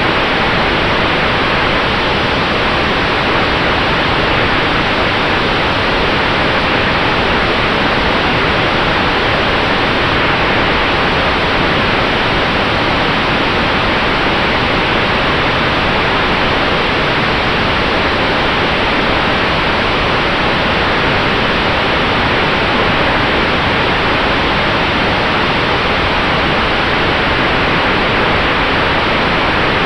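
Steady rush of air noise from an electric Sonex Xenos in cruising flight, unchanging throughout, with a faint steady high tone running under it.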